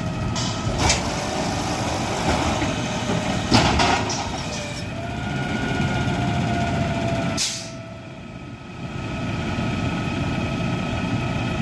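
Garbage truck's engine running steadily, with short bursts of hissing air about a second in, near the middle, and a stronger one about two-thirds of the way through, after which the engine briefly goes quieter.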